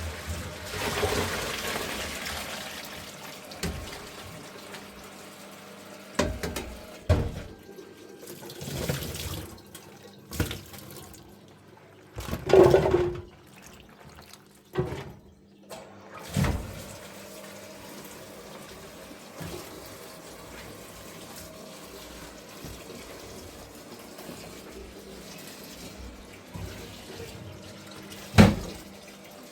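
Water running and splashing, with a swell in the first few seconds, a series of knocks and clatters through the middle, and one sharp knock near the end.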